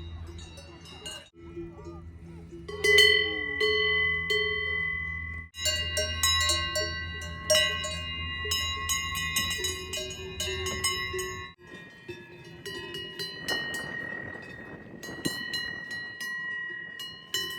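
Several Swiss cowbells on grazing cattle clanging irregularly, each bell ringing on at its own pitch, with the sound cutting out sharply a few times.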